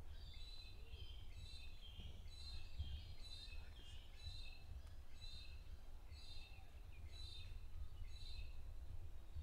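A bird singing, repeating the same short chirping phrase about once a second, over a low steady rumble.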